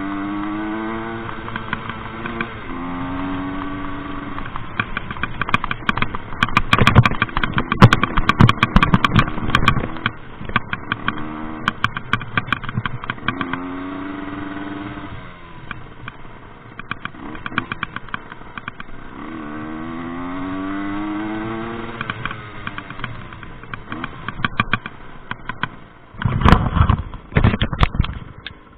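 Rieju MRT 50 two-stroke moped engine revving up in repeated rising sweeps as it is ridden, dropping back between them. Loud bursts of rattling knocks come over it twice, around the seventh to tenth second and again near the end.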